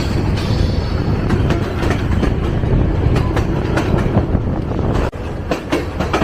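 El Chepe passenger train running along the track, heard from on board: a loud, steady low rumble with repeated clicks of the wheels over the rails. The sound drops briefly about five seconds in.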